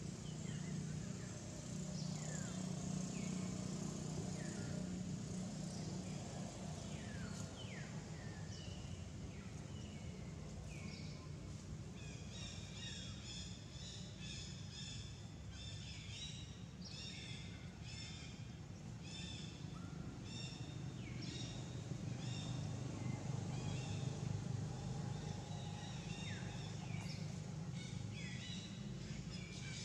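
Forest birds calling: many short falling whistles at first, then from about twelve seconds in a call repeated about twice a second, over a steady low hum.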